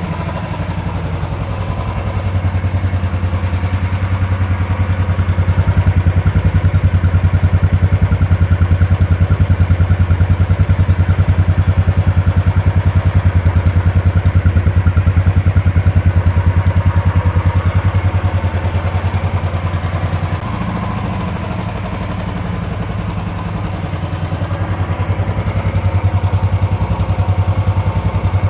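Royal Enfield Classic 350 BS6 single-cylinder engine running, its exhaust giving a deep, even beat. The note drops about two-thirds of the way through and builds again near the end.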